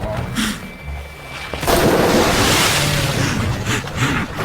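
Nile crocodile lunging out of the river at drinking wildebeest: a sudden big splash about a second and a half in, then loud churning water for the rest of the moment.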